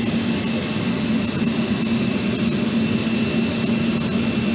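Jet aircraft engine running steadily: an even roar with a constant low hum and a faint high whine.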